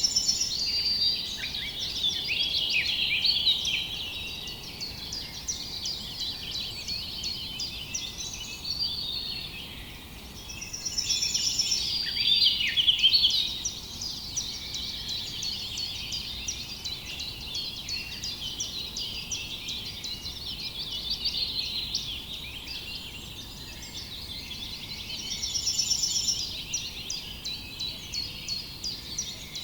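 Many small birds chirping and twittering at once in a dense, continuous chorus of quick high notes, swelling louder three times: at the start, around the middle and near the end.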